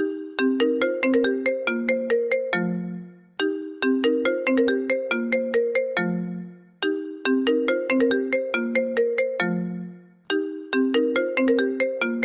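iPhone ringtone playing: a short melody of quick struck notes ending on a lower held note, repeating about every three and a half seconds and starting over four times.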